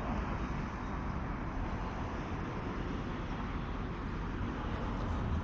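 Steady outdoor background noise with a low rumble, typical of distant traffic in a town. A brief high-pitched note sounds at the very start.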